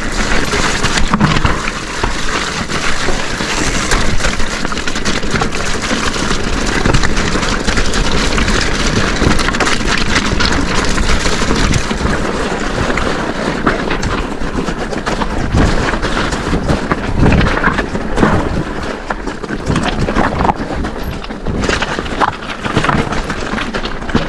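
Mondraker electric mountain bike ridden over a rough, stony track: a continuous rumble of tyres on gravel and rock, with the bike clattering and knocking over the bumps.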